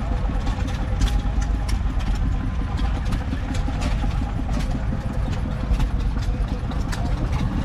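Gardner 180 10.4-litre six-cylinder diesel of a 1977 Guy Big J 4T truck idling steadily, a deep even rumble with scattered light clicks.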